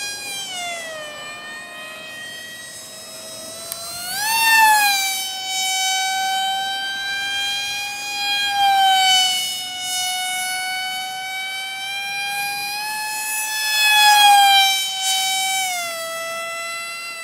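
Small electric motor driving a propeller, whining at high speed; its pitch slides down, surges up sharply about four seconds in, wavers, and drops again near the end as the speed changes.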